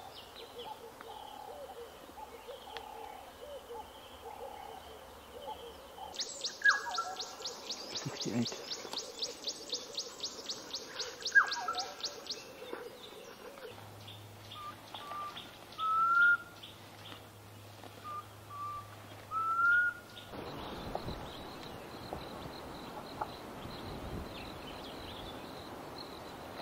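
Wild birds calling in stretches that change abruptly every few seconds. Soft repeated calls come first, then a fast pulsing chirr with two loud falling whistles, then whistled notes, two of them loud and rising. The last part is a steady high tone over a hiss.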